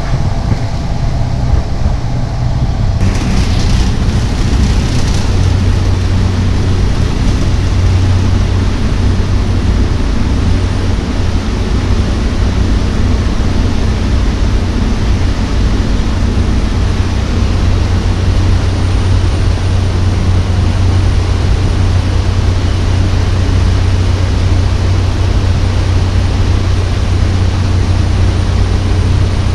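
Cessna 208 Caravan's PT6A turboprop engine and propeller running, heard from the cockpit as a loud, steady deep drone with a faint high whine. About three seconds in the sound grows fuller and brighter.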